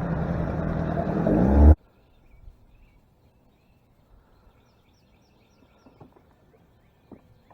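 Boat motor running and rising a little in pitch, then cutting off abruptly about two seconds in. Afterwards there are faint bird chirps and a few light knocks.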